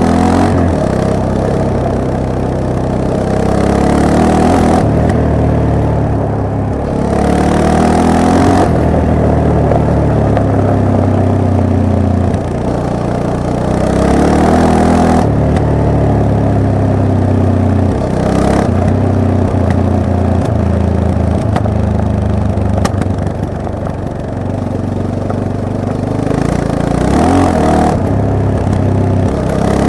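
Yamaha MT-03's 321 cc parallel-twin engine under way, revs repeatedly climbing and dropping back as it is ridden through the gears.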